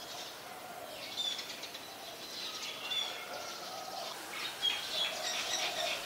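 Birds chirping and calling: scattered short high chirps, a few of them louder, over a few fainter, lower drawn-out notes.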